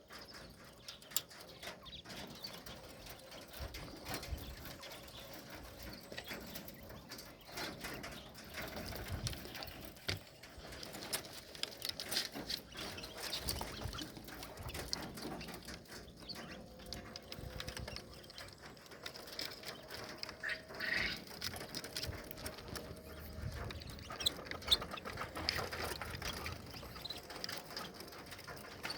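A flock of laying quail, with short chirps and calls among scattered clicks and taps.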